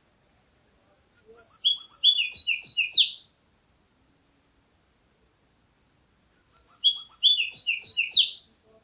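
A songbird singing the same short phrase twice, each a quick run of downward-sliding notes lasting about two seconds, with a pause of about three seconds between.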